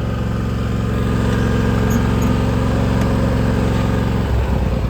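Engine running steadily at idle, its note changing and breaking up about four seconds in.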